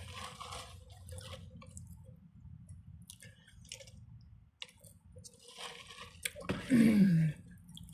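A person chewing a sandwich: soft wet mouth sounds and small clicks. About six and a half seconds in comes a loud, short voiced sound that falls in pitch.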